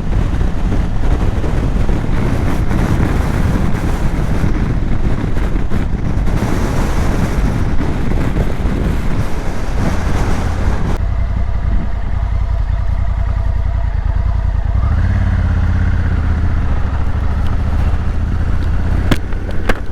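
Honda motorcycle riding with heavy wind rush on the microphone. About halfway through the wind noise drops away and the engine's steady low note comes forward as the bike slows, rising a little a few seconds later.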